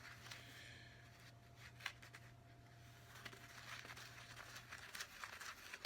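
Near silence: room tone with a steady low hum and faint light scrapes and clicks from stirring edible-slime mix in a bowl.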